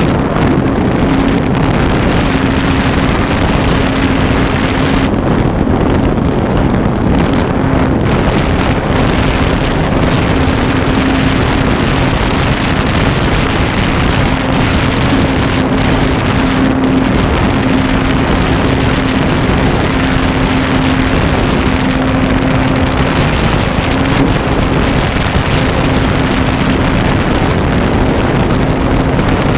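RC airplane's motor and propeller running at a steady high throttle, heard from the GoPro mounted on the plane, with heavy wind rush over the camera. There is one steady low drone that wavers only slightly in pitch.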